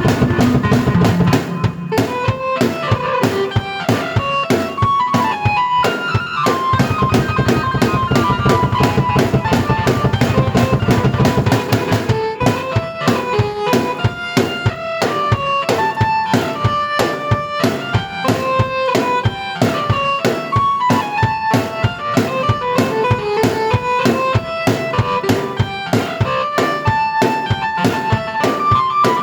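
Drum kit and keyboard played together in a song: a steady kick-and-snare beat under a keyboard melody. A low held bass part drops out about twelve seconds in, leaving drums and melody.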